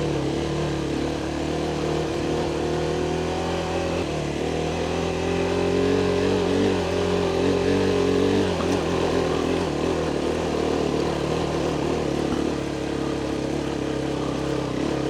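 Adventure motorcycle engine running under way, its revs climbing for a few seconds and then easing off about halfway through, over a steady rush of noise.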